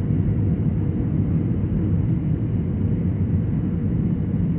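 Airbus A320 cabin noise: a steady drone of engines and airflow heard from inside the passenger cabin, with a faint constant tone over the low rumble.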